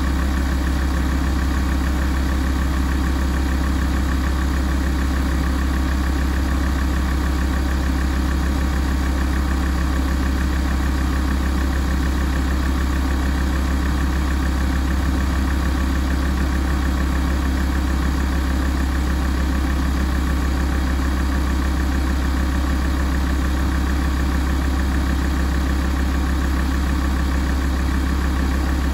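Alfa Romeo 166 2.4 JTDm five-cylinder common-rail diesel idling steadily while warming up, with no change in engine speed.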